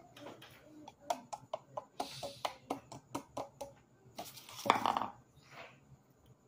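Close-up chewing of baked cornstarch chunks: a quick run of crisp crunches, about four to five a second, then a louder, noisier crunch burst about two-thirds of the way through.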